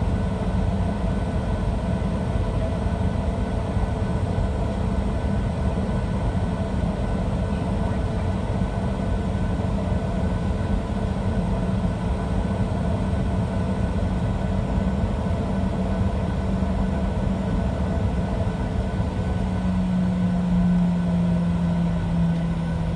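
Steady engine hum and rushing noise heard inside the cabin of a Boeing 737-700 with its CFM56-7B turbofans running. About twenty seconds in, a low hum grows louder and drops a little in pitch.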